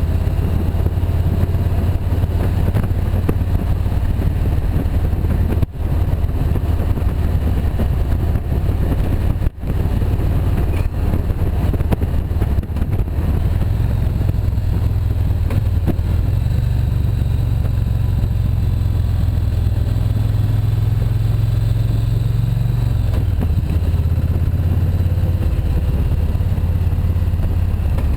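Motorcycle engine running steadily under way on the road, with two brief dips in sound early on. The engine note rises about halfway through and drops back near the end.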